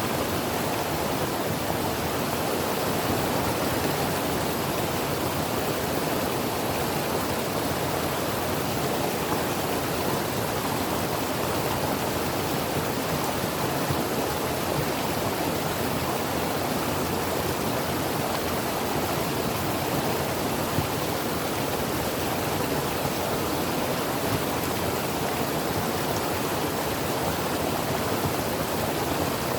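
Creek water flowing over rocks: a steady, even rushing with no changes.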